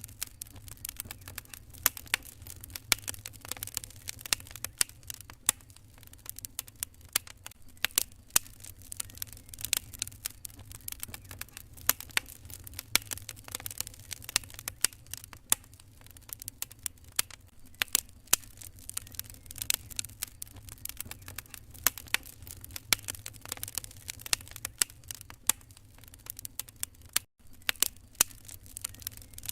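Wood fire crackling in a fireplace: frequent, irregular sharp pops and snaps over a steady low rumble. The sound cuts out for an instant near the end.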